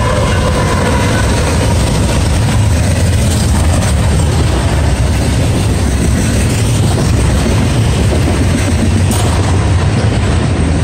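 A fast CSX double-stack intermodal freight train passing close by, its diesel locomotive going by first, then the container cars' wheels on the rails as a steady, loud rush with a low rumble.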